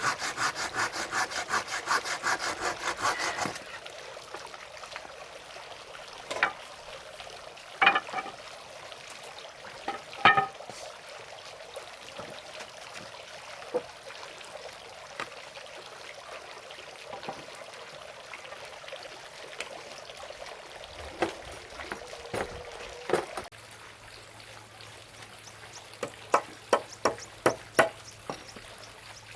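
Hand saw cutting through wood in quick, even strokes, which stop after a few seconds. A few scattered knocks of wood follow, then sawing starts again near the end at a slower stroke.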